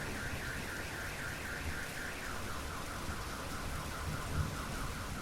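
Car alarm wailing over steady rain: a fast run of about five or six pulses a second, which drops to a lower pitch about two seconds in.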